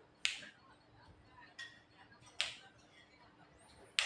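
Sharp single clicks or snaps: three loud ones about two seconds apart, with a fainter one between the first two.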